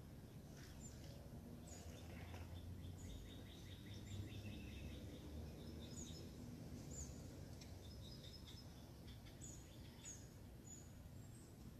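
Several birds chirping and trilling faintly, short high calls repeated throughout, over a steady low background rumble.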